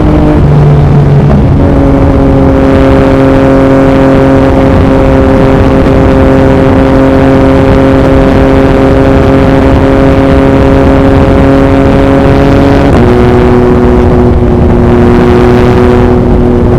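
Yamaha MT-09's three-cylinder engine through an Akrapovic racing exhaust, cruising at a steady pitch, shifting up near the start and again about two-thirds of the way through. Heavy wind noise on the microphone runs under it.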